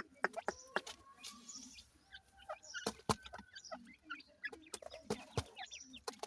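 Grey francolin chicks feeding, with short chirping calls among frequent sharp clicks of pecking at feed.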